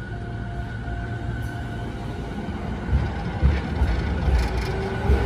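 JR East E217-series electric commuter train pulling out of the station. A steady rumble with a thin whine grows louder and rougher from about three seconds in as the cars pick up speed.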